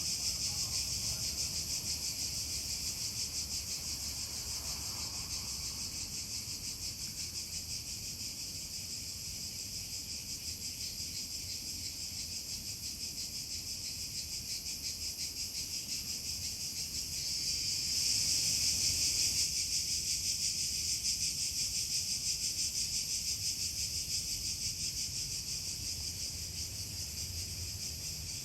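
Insects trilling steadily, a fast, high-pitched pulsing chorus that swells louder about two-thirds of the way through.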